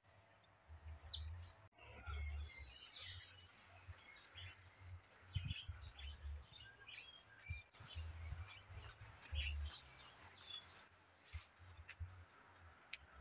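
Several birds chirping in short scattered calls, over an intermittent low rumble.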